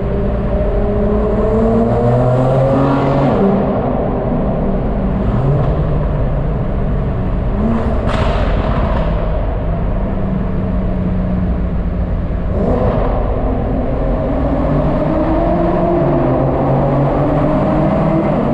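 Car exhaust with the engine running and revved gently twice, its pitch rising and falling, with a sharp click about eight seconds in.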